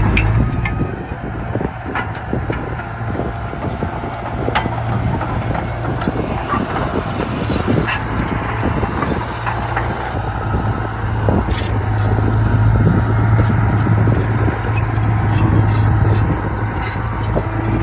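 Komatsu D31P crawler bulldozer working: its diesel engine runs steadily under load while the steel tracks and pushed soil and stones make a stream of clanks and sharp knocks.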